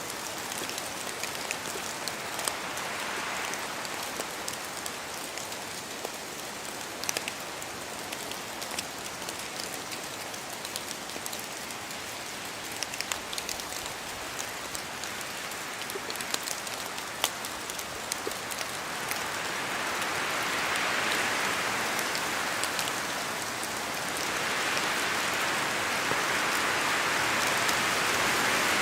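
Steady rain in a forest, with many separate drops pattering down from the trees. Wind gusts swell through the trees briefly early on and build again in the last third, the sound growing louder toward the end.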